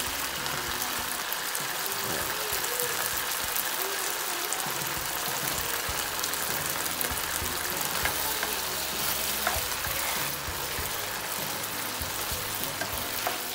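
Pork pieces with ginger and spring onions sizzling steadily in a pan over high heat, with a few light knocks of a spatula stirring near the end.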